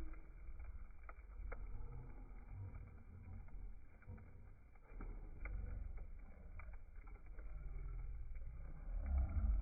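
Campfire crackling, with a few sharp pops over a low steady rumble.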